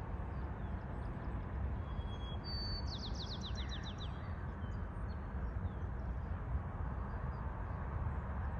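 A small bird sings briefly about three seconds in: a couple of thin high whistles, then a quick run of falling notes. A steady low outdoor rumble lies underneath throughout.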